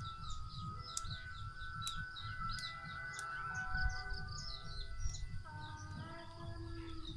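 Small birds chirping in many quick, high calls over a low rumbling noise, with sustained background music notes that change to new notes about five and a half seconds in.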